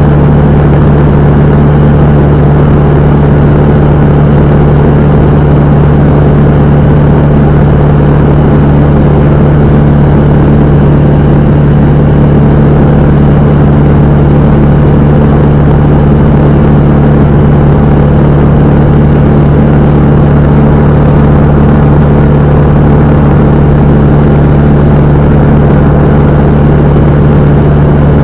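Cessna 172M's four-cylinder Lycoming piston engine and propeller running steadily, loud and unchanging.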